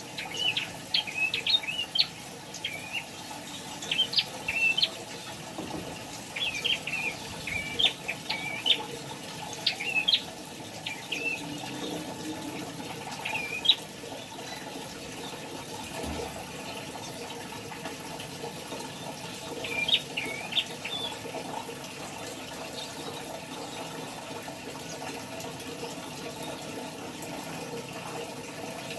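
Prinia (prenjak) calling: clusters of sharp, high chirps repeated over the first dozen or so seconds, then a short burst again about twenty seconds in. A steady rushing noise runs underneath.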